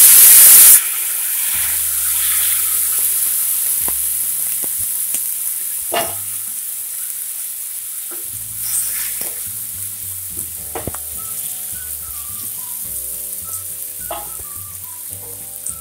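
Chopped tomatoes dropped into hot oil in a non-stick pan set off a loud burst of sizzling that drops back after about a second. The frying sizzle then carries on, slowly fading, with a few knocks of a wooden spatula stirring the pan.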